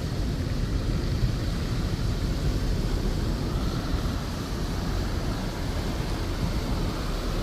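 Steady road and engine rumble of a vehicle driving, heard from inside the cab.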